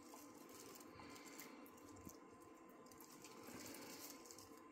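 Near silence: faint room tone with a steady faint hum.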